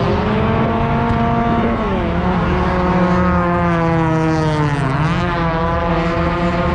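Drift car engine at high revs, its pitch climbing and holding, with two quick drops in revs about two and five seconds in before it pulls back up.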